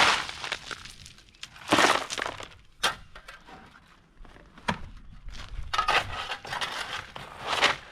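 Stones or gravel crunching and clattering in short separate bursts, about one every second or two.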